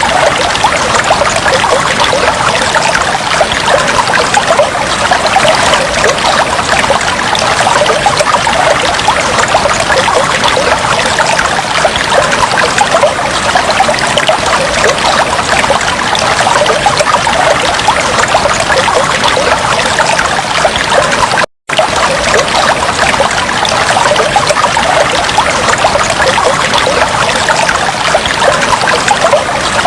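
Aquarium water trickling and bubbling steadily, a dense patter of small splashes and bubbles, with a split-second dropout about two-thirds of the way through.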